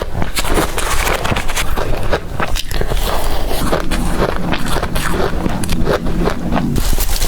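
Close-up crunching of blender-crushed ice being bitten, a dense run of rapid crisp crunches.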